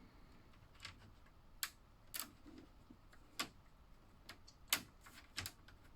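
Plastic slot-car track pieces and guard railings clicking and tapping as they are handled and snapped into place: a scattered series of sharp, light clicks, about seven of them.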